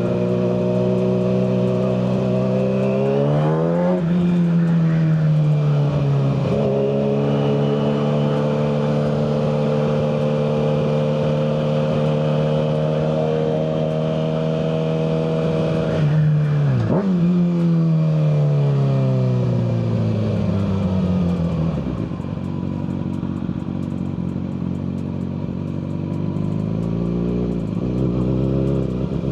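Kawasaki ZX-6R 636 inline-four engine through a Yoshimura full exhaust, heard from the rider's seat while riding. The engine climbs and changes gear about four seconds in, then runs steadily. Later it winds down over several seconds, settles near idle, and gives a short blip of throttle near the end.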